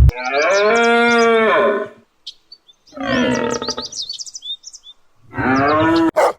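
A farm animal calling three times, long drawn-out bleat- or moo-like calls of about a second and a half each, with birds chirping over them.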